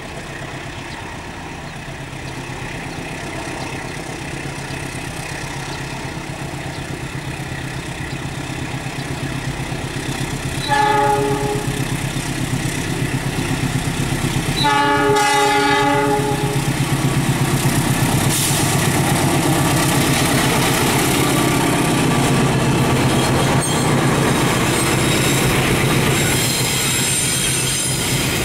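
A diesel-electric locomotive hauling a freight train of container and covered coil wagons approaches with its engine running, growing louder as it nears. It sounds its multi-tone horn twice: a short blast about eleven seconds in and a longer one about four seconds later. Near the end the freight wagons roll past with a rhythmic clickety-clack.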